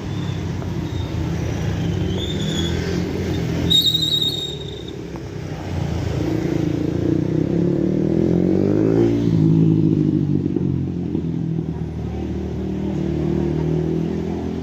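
Motor vehicle engines running on a road, one passing by with its pitch dropping about nine seconds in. A short high-pitched sound comes about four seconds in.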